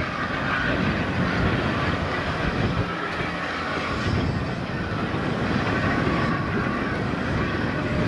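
Train hauled by the steam locomotive Tornado running on the rails, a steady dense rumble.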